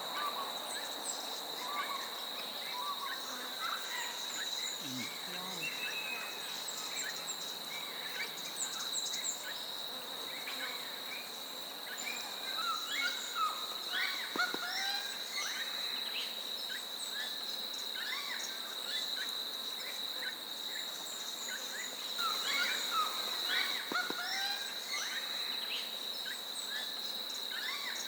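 Insects holding a steady, high, continuous drone in the bush. Many short bird calls chirp over it, busiest in two spells, one about halfway through and one near the end.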